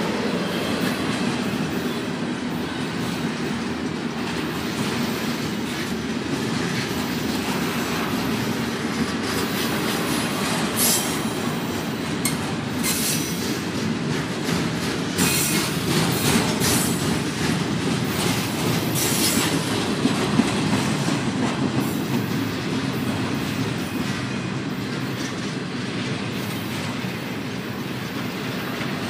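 Double-stack intermodal freight train rolling past: a steady rumble of wheels on rail with clattering from the passing cars, and brief high screeches and squeals through the middle of the stretch.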